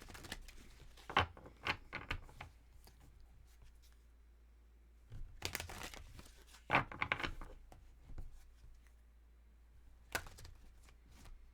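Tarot cards being handled and shuffled: three short flurries of sharp papery flicks and slaps, at the start, around the middle and once briefly near the end.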